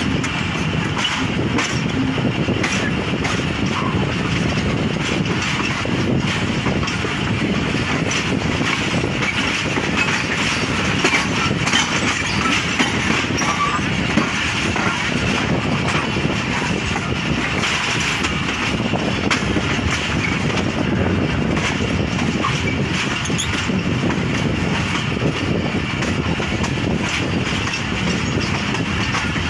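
Tezgam Express passenger coach running along the track, heard from an open doorway: a steady rumble of wheels on rail with scattered clicks as the wheels cross joints and points.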